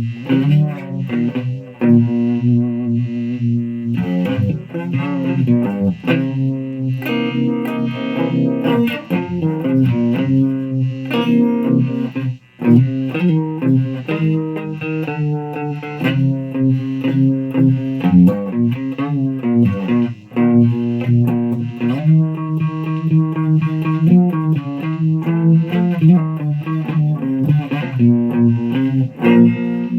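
Electric guitar played through a Fuzz Face fuzz pedal on a run-down battery, giving a distorted tone that is called horrible. It plays a continuous string of held notes with a few pitch bends.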